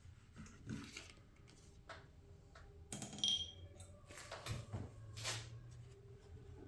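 Faint clicks and knocks of small metal parts and hand tools being handled while a lawnmower carburetor is taken apart, with one metal clink about three seconds in that rings briefly.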